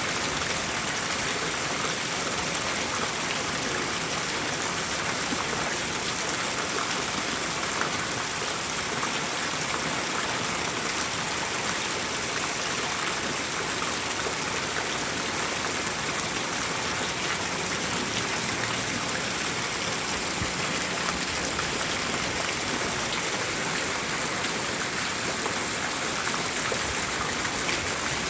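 Steady rain falling, an even hiss with faint ticks of individual drops that stays constant throughout.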